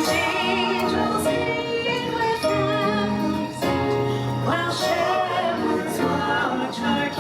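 Choir singing a Christmas carol with musical accompaniment, the voices holding long notes with vibrato.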